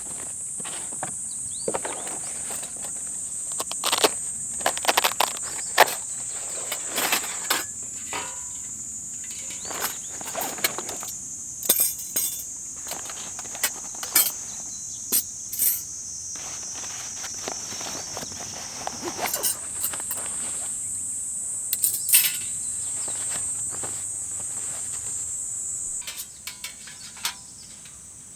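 A steady, high-pitched insect chorus runs on and thins out near the end. Over it come irregular clicks, knocks and rustles, like footsteps and gear being handled close by.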